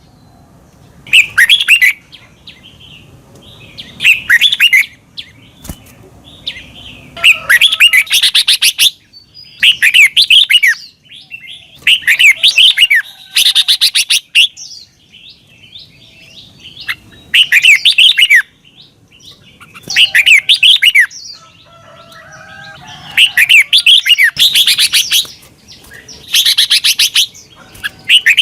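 Red-whiskered bulbul singing: loud, short phrases of quick up-and-down whistled notes, repeated about every two seconds with brief pauses between.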